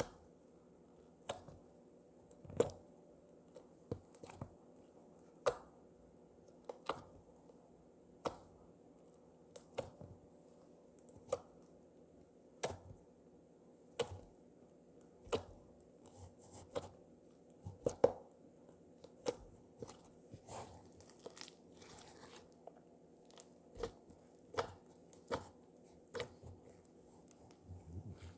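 Slime being pressed and kneaded by hand, giving a sharp pop or click about once a second, with softer crackling between some of the pops.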